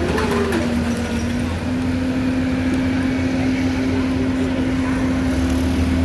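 Excavator's diesel engine running steadily with a constant hydraulic whine over it. The whine steps up slightly in pitch about a second and a half in.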